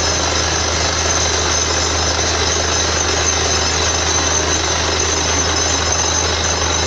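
Borewell drilling rig running steadily under load: a constant engine drone with dense, hammering drilling noise over it.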